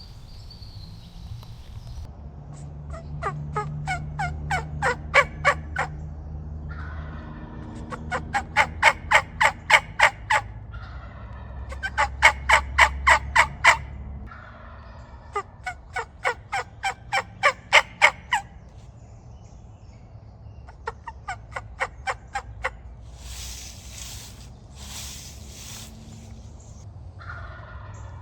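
Wild turkey calls: five runs of sharp, repeated notes, about four to five a second, each run lasting a few seconds. Near the end come two brief rushing noises.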